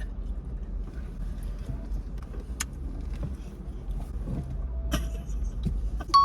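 Steady low rumble of a car cabin with scattered faint rustles and clicks. A ringing tone starts just before the end.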